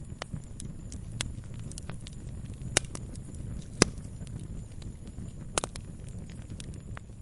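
Wood fire crackling in a fireplace: a low steady rumble of flames with irregular sharp pops and snaps, the loudest about three and four seconds in and again near five and a half.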